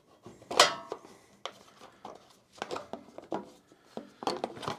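Metal hand tools and small engine parts clicking and clinking as a choke knob is worked off a snowblower engine, with one sharp ringing clink about half a second in and scattered lighter clicks after.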